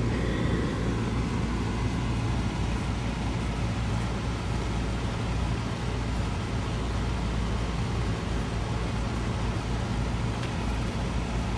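Four-wheel-drive vehicle driving at a steady pace, a continuous low engine and road rumble with no sudden changes.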